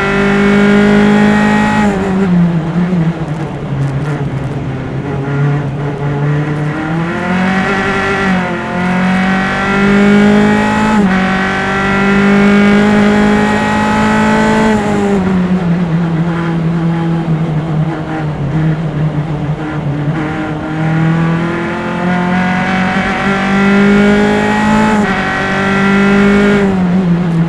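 Single-seater formula race car's engine heard on board, pulling hard through the gears with rising pitch and stepped upshifts. It drops in pitch on downshifts under braking about two seconds in, around halfway and again near the end.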